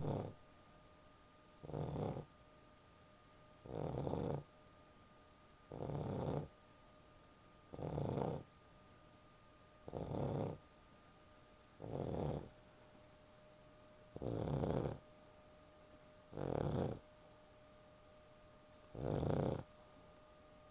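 A sleeping pug snoring, one snore about every two seconds in a steady rhythm.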